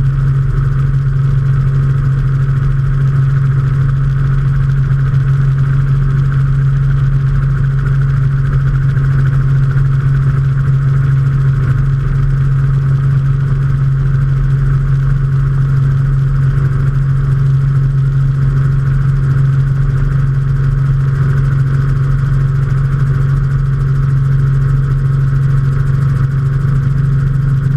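Robinson R44 helicopter heard from on board: its Lycoming six-cylinder piston engine and rotors running at a steady cruise, a loud, even low drone with a fainter higher hum that does not change.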